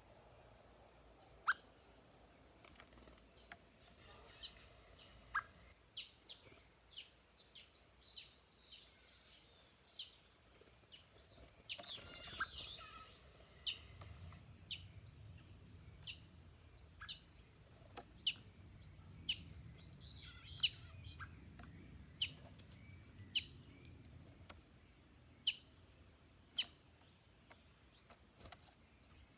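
Wild birds calling: a series of short, sharp, high chirps that drop quickly in pitch, about one a second, with two brief bursts of busier high twittering about four seconds in and again about twelve seconds in.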